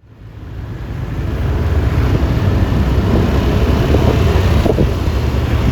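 Wind buffeting the microphone and road noise from a moving Yamaha Lexi LX 155 scooter, a dense low rumble that fades in over the first second and a half and then holds steady.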